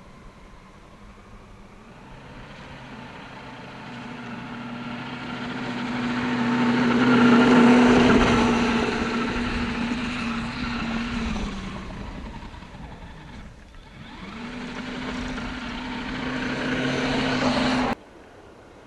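Brushless electric motor of an RC trophy truck whining steadily as the truck drives past on snow, swelling to its loudest about eight seconds in and fading away. A second pass builds up again and cuts off suddenly near the end.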